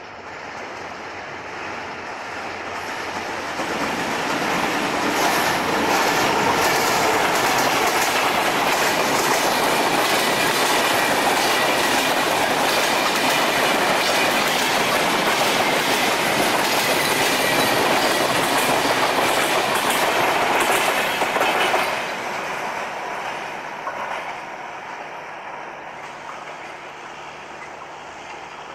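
Diesel-hauled broad-gauge passenger train passing close by at speed, its wheels clattering over the rail joints. The noise builds over the first few seconds as it approaches, stays loud and steady while the coaches go by, then drops off sharply about three quarters of the way through to a quieter rumble.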